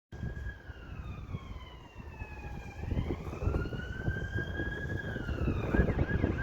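A siren wailing, its pitch sliding slowly down over about three seconds and then rising and holding, heard through heavy wind buffeting on the microphone.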